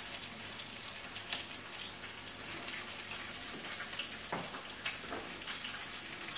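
Chicken pieces frying in oil in a pan: a steady sizzle with scattered crackles and pops. A soft knock a little past the middle.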